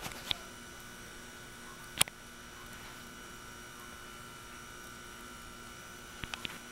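A steady low electrical hum with faint steady tones over a light hiss, broken by one sharp click about two seconds in and a few faint clicks near the end.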